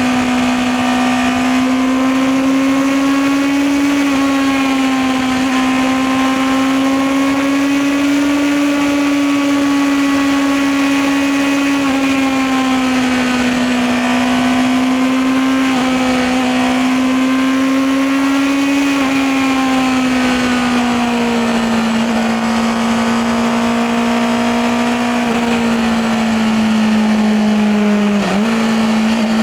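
Honda CBR650R's 649 cc inline-four engine and exhaust running under way at a steady, fairly high engine speed. Its pitch rises and falls gently several times as the throttle changes, with a brief dip near the end.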